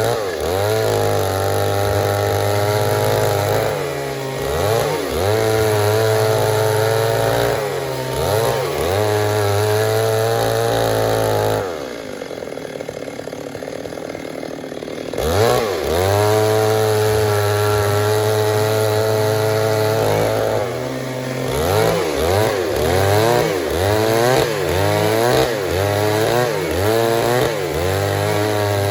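Stihl MS 382 two-stroke chainsaw running at high revs, its pitch dipping and recovering again and again as it works in a cut. About twelve seconds in it falls back to a lower, quieter speed for around three seconds, then revs up again.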